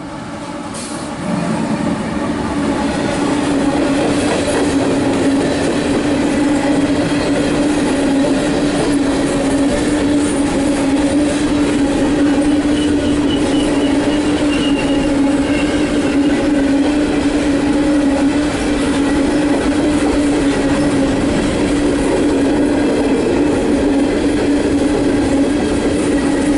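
Empty coal train rolling slowly past, its wheels on the rails giving a steady loud rumble and clatter with a sustained tone held throughout. It grows louder over the first couple of seconds, then holds steady.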